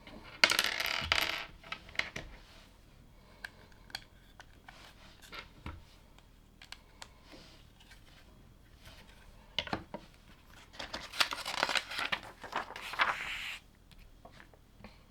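Loose plastic LEGO pieces clattering: a rattling burst early on and a longer one about 11 seconds in, with scattered small clicks of single bricks being picked up and handled in between.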